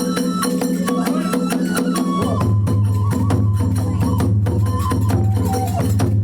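Kagura hayashi ensemble playing a fast, steady beat on drums and small hand cymbals under a high flute melody that moves in steps.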